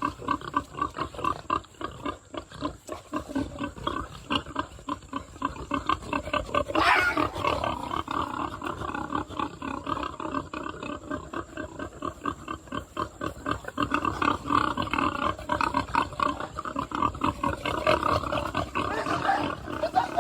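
Farm animals calling in a dense, rapid run of short calls, with one longer call about seven seconds in.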